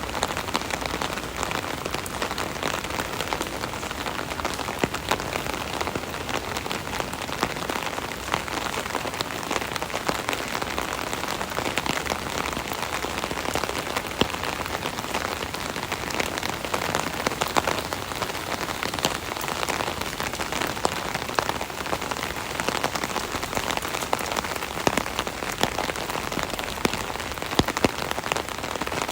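Steady rain pattering on an umbrella canopy overhead, a dense even hiss dotted with the sharper ticks of individual drops striking the fabric.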